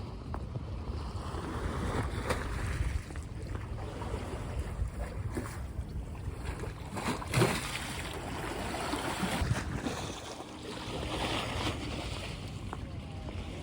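Wind buffeting the microphone outdoors, with scattered small knocks; the loudest is a sharp knock about seven seconds in.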